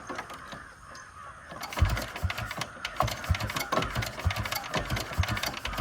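Sooraj motorcycle's Lombardini 325cc single-cylinder diesel engine catching about two seconds in, then running with a steady, slow thumping beat and a clattering knock.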